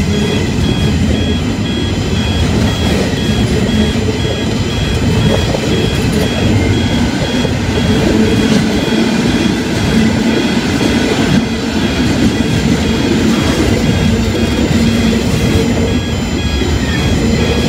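Container freight train's wagons rolling past close by, a steady rumble of wheels clacking over the rails. A steady high-pitched level crossing bell rings over it.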